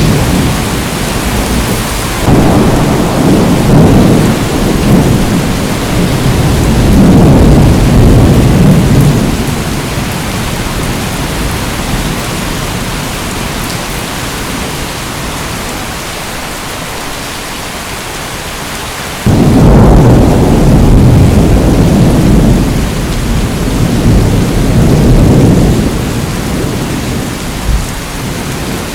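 Steady heavy rain, with two long rolls of thunder. The first breaks in about two seconds in and rumbles on for several seconds; the second starts suddenly about two-thirds of the way through.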